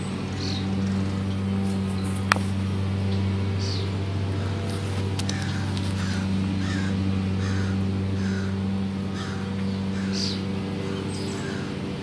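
American crows cawing, with a quick run of repeated short calls through the second half. A steady low hum runs underneath, and a single sharp click comes a couple of seconds in.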